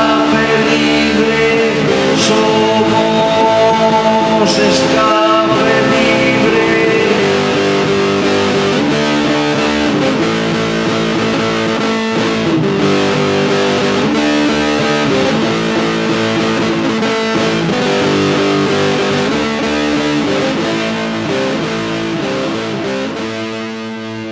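Rock music: an instrumental passage led by guitar, easing down slightly near the end.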